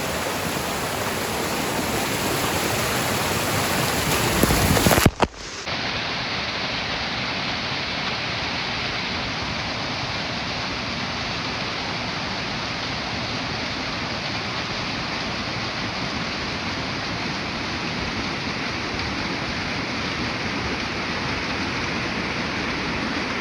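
Steady rushing of a waterfall. About five seconds in the sound swells, breaks off for a moment, then carries on sounding duller.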